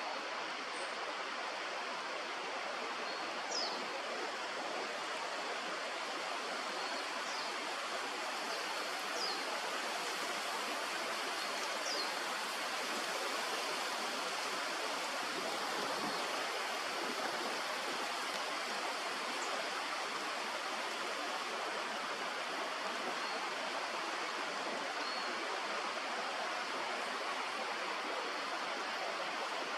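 Steady rushing of a stream, with a few short, faint high chirps scattered through the first half.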